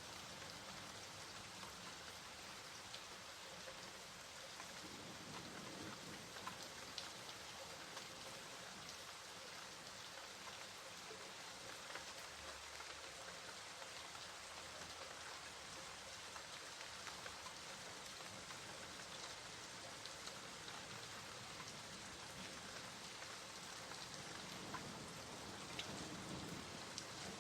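Steady rainfall: an even hiss of rain with scattered individual drops ticking sharply on a surface.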